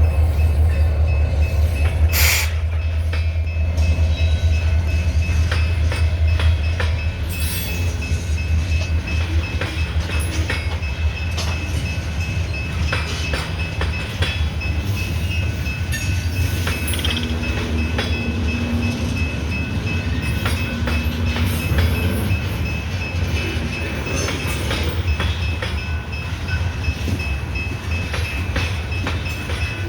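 Loaded coal train moving, hauled by diesel locomotives: a steady heavy low rumble with scattered clicks and knocks from the cars and wheels, and a faint thin steady whine above it.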